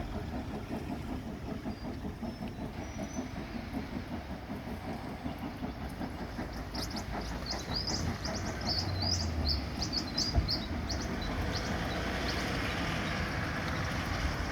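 Steam locomotive 3526 running, a rapid pulsing rumble, with birds chirping partway through and a single sharp knock about ten seconds in. A hiss rises toward the end.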